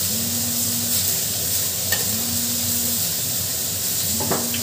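Onions, garlic and fennel seeds frying in oil with a steady sizzle. A low hum swells and fades about every two seconds behind it, and there are a couple of short clicks, one about two seconds in and one near the end.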